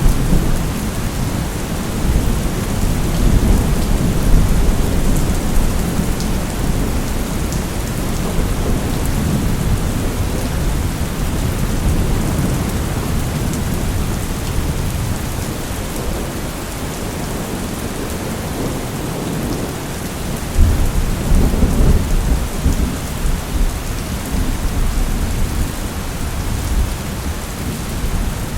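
Steady rain with low rolling thunder. A louder rumble of thunder sets in about two-thirds of the way through.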